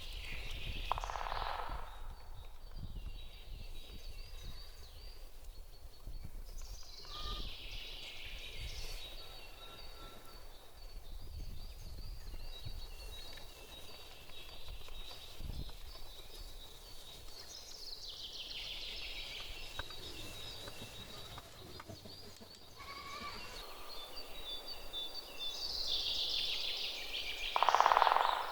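Outdoor rural ambience: a steady high-pitched tone, with a call that falls in pitch repeating roughly every ten seconds, and a louder call just before the end.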